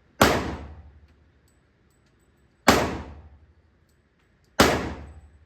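Three gunshots, the second about two and a half seconds after the first and the third about two seconds after that, each dying away in a short echo.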